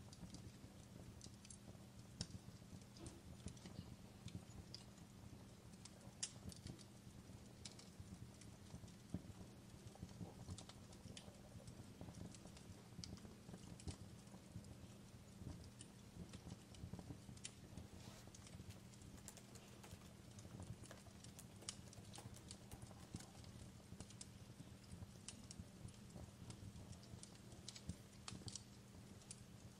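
Quiet fireplace crackling: irregular small pops and snaps from a burning wood fire over a low steady rumble.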